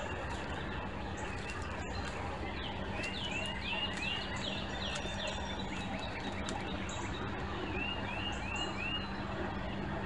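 A songbird repeating a short, quick arched chirp, a run of about six notes some three seconds in and four more near the end, over steady background noise with a low hum.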